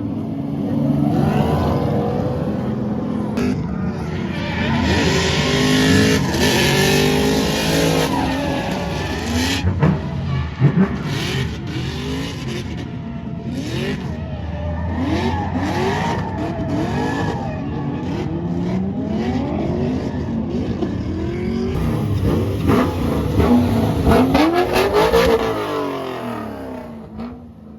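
Drift cars on track with engines revving up and down again and again, mixed with tyre screech, fading away near the end.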